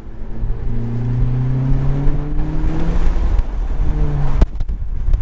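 Turbocharged four-cylinder engine of a 2018 Honda Accord with its resonator and muffler deleted and a short ram intake, pulling hard with its pitch rising for about two seconds, then easing off. There is a sharp crack about four and a half seconds in. Wind noise runs underneath.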